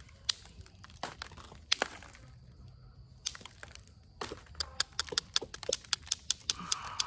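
Onondaga chert being flintknapped to remove damage at the base of the point: sharp stone clicks, a few spaced apart at first, then a quick run of about three or four clicks a second from about four seconds in.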